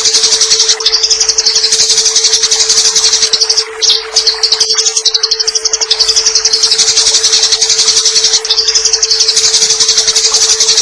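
Eurasian tree sparrows chattering fast and harshly, the rapid calls of fighting birds, in long unbroken runs with a short break about four seconds in. A steady low hum and a faint haze lie underneath.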